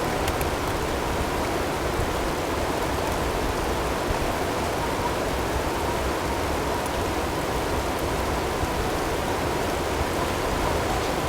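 Snowstorm wind blowing steadily, a dense even rushing noise, with a faint steady tone blended in underneath.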